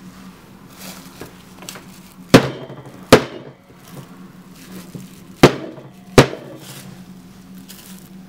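Four sharp knocks of a hard object on a hard work surface, in two pairs about 0.7 s apart, the second pair about three seconds after the first.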